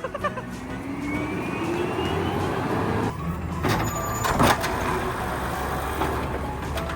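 Garbage truck engine revving, its pitch rising steadily for about three seconds, then running on with a steady low rumble. Two sharp knocks come around the middle.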